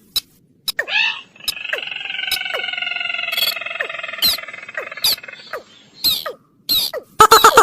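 Bird-lure recording of wild paddy-field bird calls: sharp falling chirps, then a rattling held call lasting about four seconds, and near the end a quick run of clicking notes.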